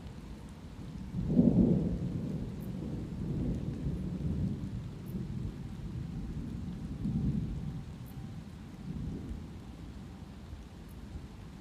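Thunder: a low rumble breaks suddenly about a second in and rolls on in several swells, dying away near the end, over steady light rain.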